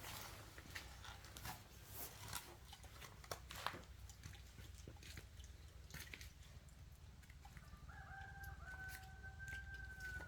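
Scattered light clicks and taps, then a rooster crowing from about three quarters of the way in: one long, level call that steps up slightly partway and runs to the end.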